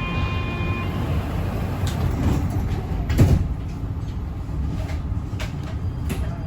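Metro train car running: a steady low rumble with scattered clicks and rattles from the car, and a louder knock about three seconds in.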